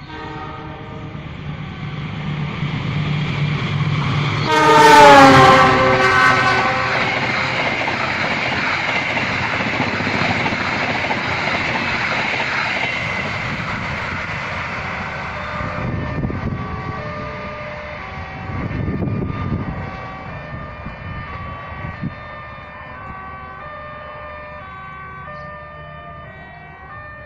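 Passenger train passing: its horn sounds loudly about five seconds in, the pitch dropping slightly as it goes by. The rumble and clatter of the train follow and fade away after about sixteen seconds. Short repeating tones sound faintly throughout.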